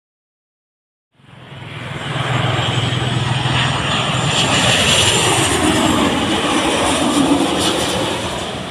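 Jet airliner passing low overhead on its landing approach: the engine roar cuts in about a second in, swells to a loud peak in the middle with a high whine, and its pitch falls as it passes.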